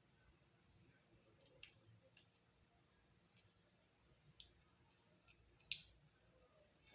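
Sparse light clicks and taps of a laptop DVD drive's small parts being handled during its maintenance, about seven in all at irregular gaps, the loudest near the end.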